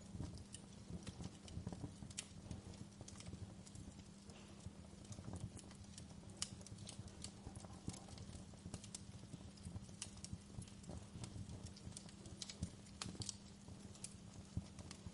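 Wood fire in a fireplace crackling: frequent irregular pops and snaps over a steady low rumble.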